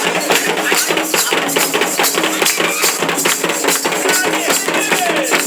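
Candomblé ceremonial music: percussion beating a fast, steady rhythm, with voices over it.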